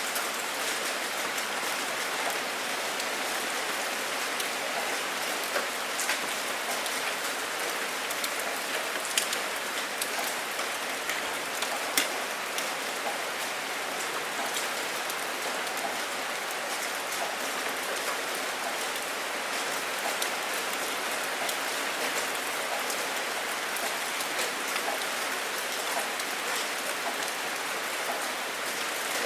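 Steady rain falling, a continuous hiss with scattered sharper drops ticking on a surface.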